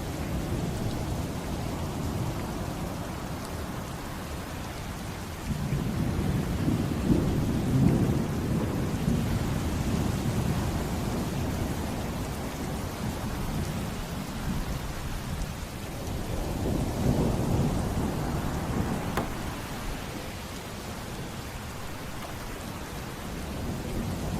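Steady heavy rain with rolling thunder. A deep rumble comes in suddenly about five seconds in, and a second swells up about two-thirds of the way through.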